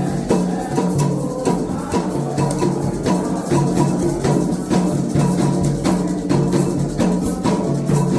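Candomblé ritual percussion: atabaque hand drums played in a steady, driving rhythm, with a metal bell and shaker marking the time.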